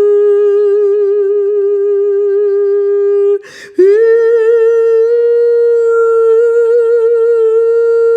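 A single voice holding a long hummed tone with a slight waver. It breaks off about three and a half seconds in for a quick breath, then comes back a little higher and is held steady.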